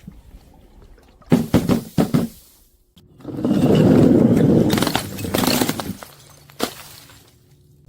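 Glass bottles being crushed: a few sharp cracks about a second in, then a long stretch of crunching, grinding glass, and one more sharp crack near the end.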